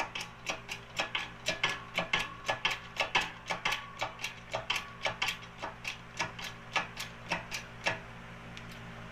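Hand-operated tube bender ratcheting: a run of sharp metal clicks, about three or four a second, that pauses near the end.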